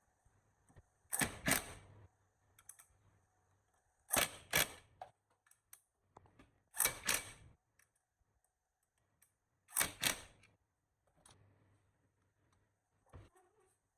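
Workshop tool noise: four pairs of short, sharp strikes or scrapes, the two in each pair about half a second apart, repeating about every three seconds.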